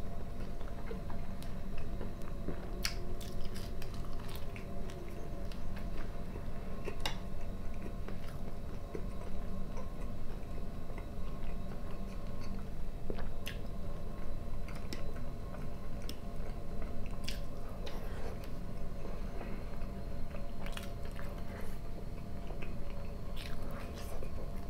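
Close-up chewing and biting of a meal of fried potatoes, smoked pork fat and bread, with occasional short sharp clicks and smacks every second or two over a faint steady background hum.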